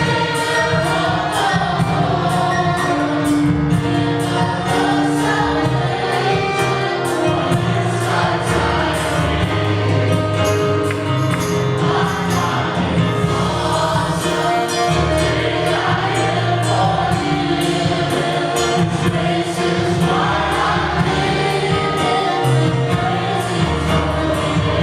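A congregational worship song with singers backed by a band, with a steady beat and bass.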